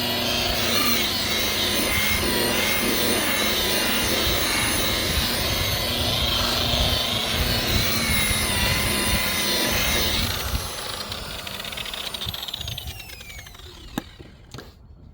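Handheld rotary polisher buffing rubbing compound on a plastic headlight lens, its motor running steadily with its pitch wavering. About ten seconds in it is switched off and spins down with a falling whine, and a single click comes near the end.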